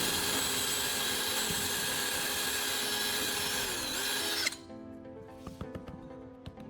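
Electric drill running and boring through a thick stack of glued cardboard; its motor pitch dips briefly near the end before it cuts off about four and a half seconds in. Quiet background music follows.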